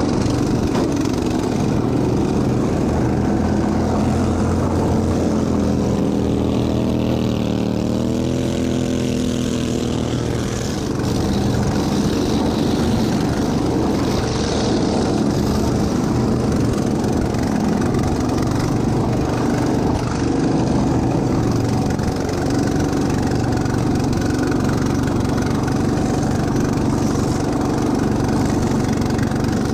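Racing lawn tractor's small engine running hard and steady, its pitch wavering up and down for a few seconds about seven seconds in.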